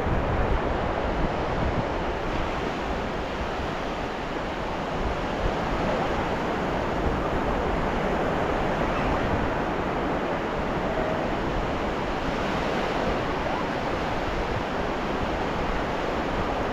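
Ocean surf washing onto a beach, a steady rush of waves with only gentle rises and falls in level.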